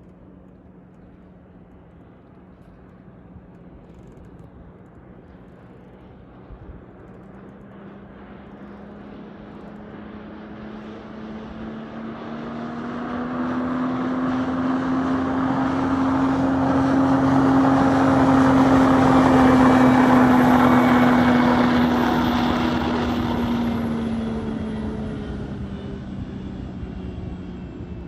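Speedboat powered by a Mercedes OM606 straight-six diesel passing at speed. Its engine drone builds over about ten seconds, is loudest roughly two-thirds of the way in, then fades, dropping slightly in pitch as it goes by. A faint high whine rides on top.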